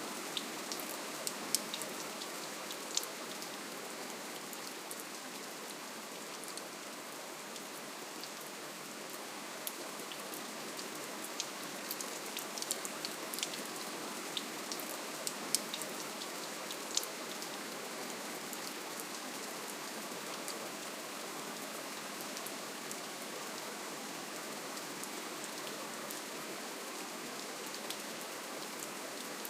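Soft, steady rainfall: an even hiss of rain with many separate drops ticking on a surface.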